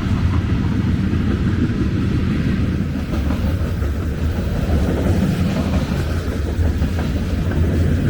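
BNSF manifest freight train passing close by, a steady low rumble of the train rolling along the rails.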